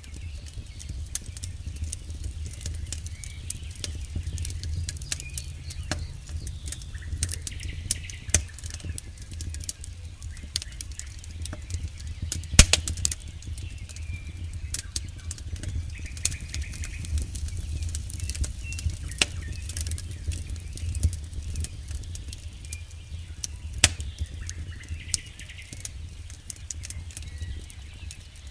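Campfire crackling, with frequent snaps and pops over a steady low rumble. Two sharper pops stand out, one about halfway through and one near the end.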